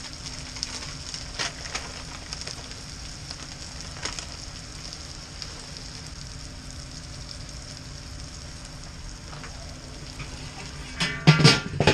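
Hot Italian sausage, spinach and cranberries sizzling steadily in a cast-iron skillet over a charcoal fire, with scattered small crackles. A few louder knocks come near the end.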